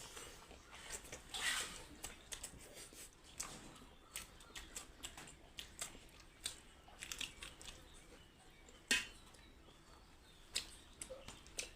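A person eating close to the microphone: irregular crunching and chewing with small clicks and smacks, and one sharper click about nine seconds in.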